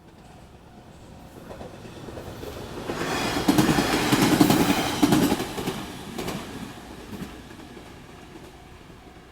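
A train passes over a railway level crossing. Its wheels clatter over the rail joints, loudest a few seconds in and then fading away. A level-crossing warning bell rings steadily and faintly underneath.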